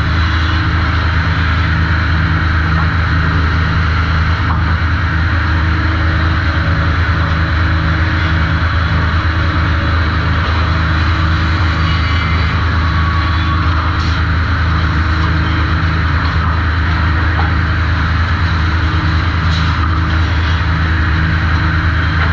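Sawmill machinery running steadily at the trim saw, a loud constant motor hum with no change in pitch or load, and a couple of faint light ticks.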